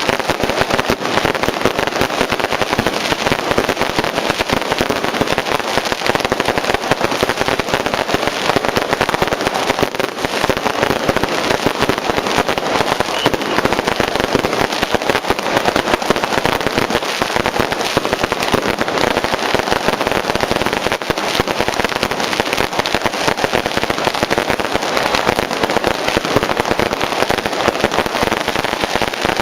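Firecrackers going off in a dense, unbroken crackle of rapid bangs, a long barrage set off for the passing Mazu procession.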